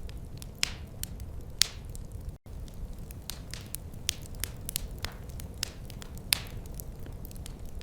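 Wood fire crackling: irregular sharp pops and snaps, a few louder ones standing out, over a steady low rumble. The sound cuts out for a split second about two and a half seconds in.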